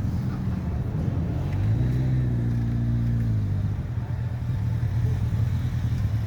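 Motorcycle engine running steadily, given a brief rev about two seconds in that holds for a moment and settles back down.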